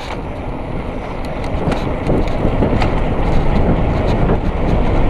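Wind rushing over the action camera's microphone, together with the tyre rumble of a KHS 650 mountain bike descending fast downhill. The noise grows louder as the speed builds, with a few faint rattles and clicks from the bike.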